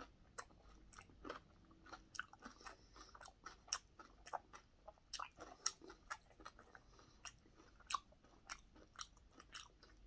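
A person chewing a mouthful of food close to the microphone: faint, irregular wet clicks and small crunches, several a second.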